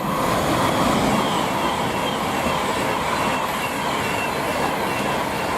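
Class 390 Pendolino electric train passing, a loud steady rush of wheel and air noise with faint high whining tones over it.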